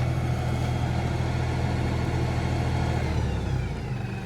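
LS compact tractor's diesel engine running steadily, then its revs falling off about three seconds in as it is throttled down.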